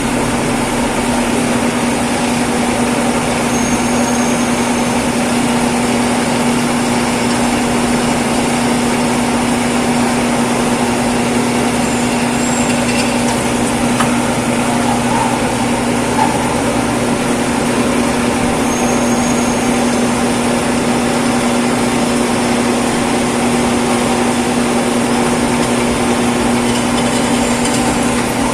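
Steady machine hum with a constant pitched tone, running evenly without change.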